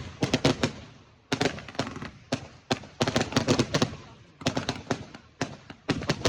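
Fireworks going off in quick volleys of sharp cracks, about six clusters of rapid bangs roughly a second apart.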